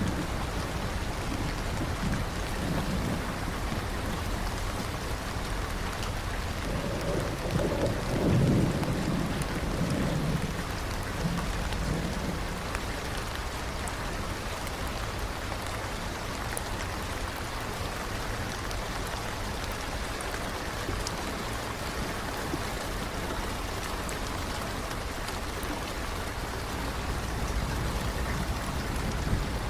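Steady rain falling. A low rumble of thunder rolls in about a quarter of the way through and fades over a few seconds.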